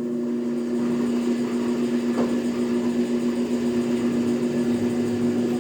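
Electric drive motor of a metal planer running with a steady two-note hum while the machine makes a slow pass, trying to take a cut; a faint tick comes about two seconds in.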